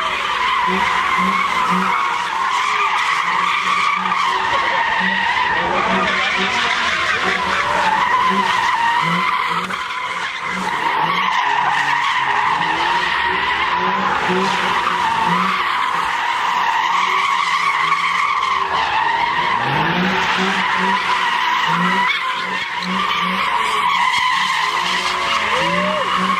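Car tyres squealing continuously as a car spins donuts, with the engine revving up and down under the screech; the squeal eases briefly twice.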